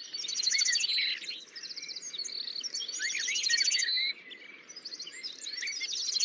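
Birds singing and chirping, with two runs of rapid, high trills about a second long, one near the start and one about halfway through, among scattered shorter chirps.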